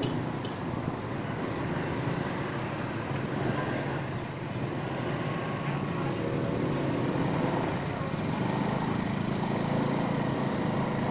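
A motor vehicle running steadily on the move, its engine and road noise heard throughout.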